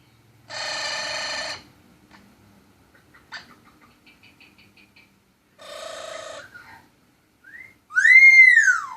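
Pet bird calling: two raspy, buzzy calls about a second long with soft clicking between them, then a short chirp and a loud whistle that rises and falls near the end.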